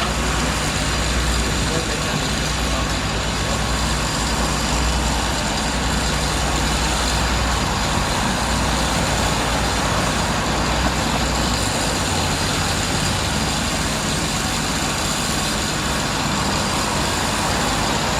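A heavy vehicle engine running steadily under a wash of loud, even noise; its low hum drops away about twelve seconds in.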